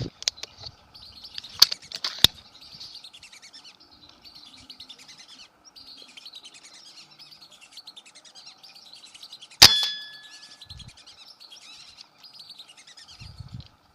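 Birds chirping continuously in a dense, busy chatter. A couple of sharp clicks come about two seconds in, and a single loud sharp crack with a brief metallic ring sounds about ten seconds in.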